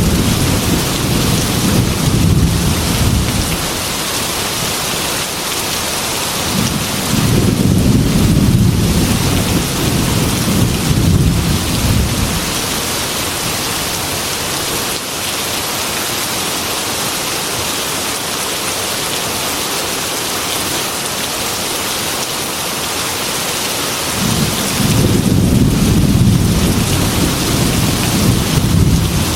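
Heavy rain pattering steadily on a glass window, with three low rolls of thunder: one at the start, a longer one about seven seconds in, and another near the end.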